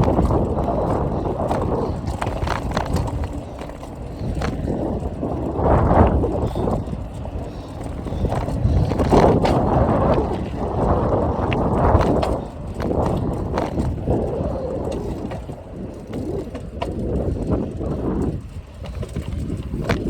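Mountain bike being ridden: tyre and drivetrain noise with a rattly chain and scattered clicks, under wind buffeting the microphone that swells and drops every few seconds.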